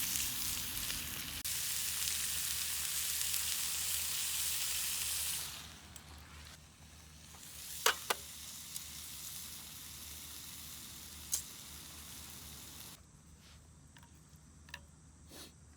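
Food sizzling and frying in a small cast-iron skillet for about five seconds, then much quieter. A few sharp clicks come about eight and eleven seconds in, and faint ticks follow near the end.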